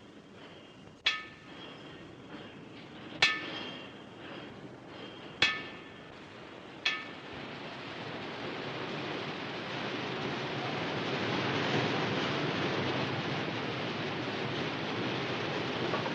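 Metal struck with a hammer four times, a second or two apart, each strike ringing briefly. Over the second half a steady rushing hiss builds up and holds.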